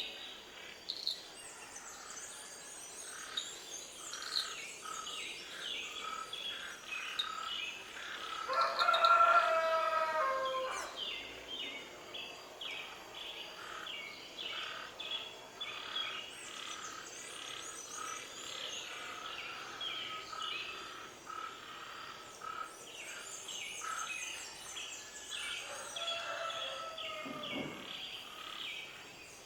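Many small birds chirping continuously, with a rooster crowing once, loudly, about nine seconds in, and a second, falling call near the end.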